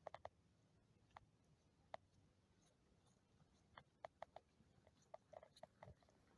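Near silence broken by faint, scattered short clicks and ticks, a few of them with a brief ringing pitch.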